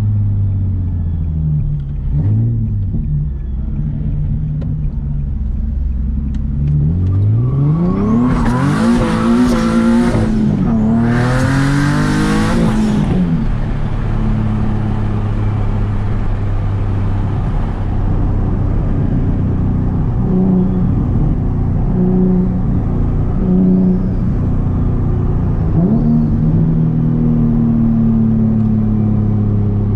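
Turbocharged Nissan 370Z's 3.7-litre V6 running under way, climbing in pitch through two hard pulls about seven to thirteen seconds in, each with a loud rushing noise over it. After that it settles into steadier running with small rises and falls in pitch.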